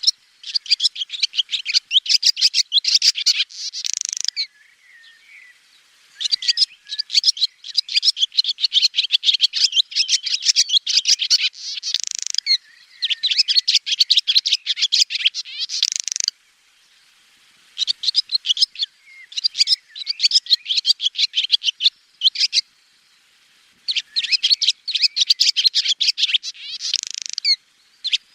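Swallow twittering: rapid high chirps and trills in bouts of a few seconds, with short pauses between bouts.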